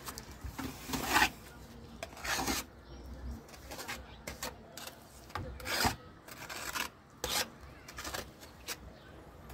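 Short, gritty scrapes, about half a dozen, of masonry being shifted and set into place on a brick barbecue oven under construction.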